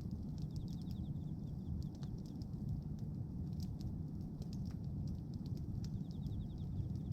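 Bonfire of pruned tree branches burning, with scattered sharp crackles and pops over a steady low rumble. Twice, about a second in and near the end, a rapid high-pitched trill sounds over the fire.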